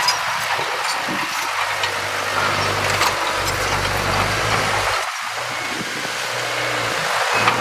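Diesel engine of heavy earthmoving machinery running steadily, a low hum under a noisy mechanical rumble that dips slightly about five seconds in.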